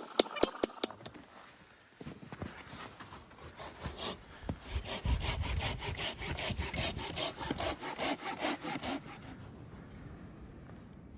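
Footsteps crunching and scraping on snow and ice in a fast, even rhythm, with wind buffeting the microphone. A few sharp clicks come at the start, and the crunching stops about two seconds before the end.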